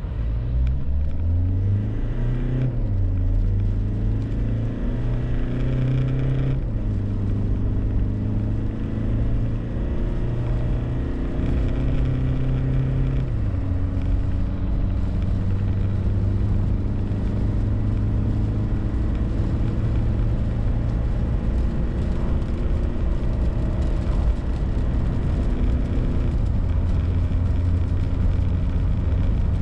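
Mitsubishi L200's 2.2 DI-D four-cylinder turbodiesel pulling under full throttle through its six-speed automatic. The engine note climbs and drops at each upshift, about three seconds in, near seven seconds and near thirteen seconds, then holds a steadier pitch as the truck keeps gaining speed.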